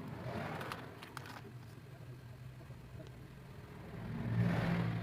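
Motor vehicle engine running with a steady low hum, swelling louder about four seconds in, as if passing by.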